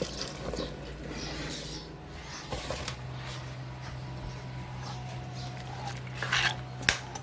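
Scraping, rubbing and light knocks as food is tipped into a cooking pot, over a steady low hum.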